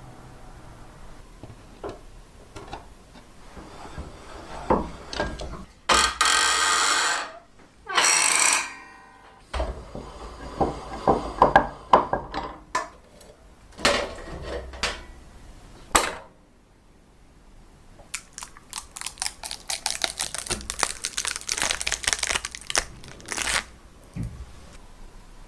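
Repair handling sounds of metal parts and tools: scattered knocks and clicks, two short loud bursts of rushing noise, clattering knocks, then a long run of rapid scraping ticks near the end.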